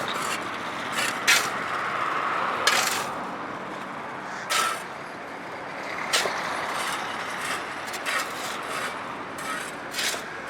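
Steady road traffic with short scraping strokes scattered through it at irregular intervals.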